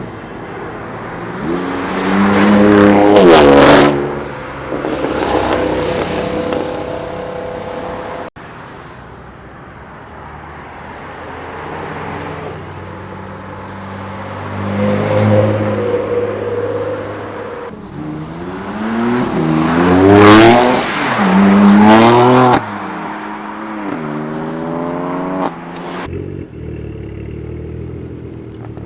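Cars accelerating hard past one after another, each engine revving up in pitch and dropping back at the gear changes. Some passes end in abrupt cuts. The loudest run comes about two-thirds of the way in, climbing through two or three shifts.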